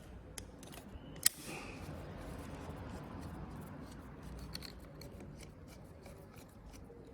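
Hand work on motorcycle handlebar controls: a sharp click about a second in, then soft rubbing and faint clicks of plastic and metal parts as a fastening is undone and the part is freed.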